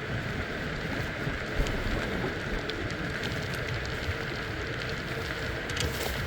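Steady rushing noise of a bicycle ride: tyres rolling on the road and wind on the microphone, with a few faint clicks.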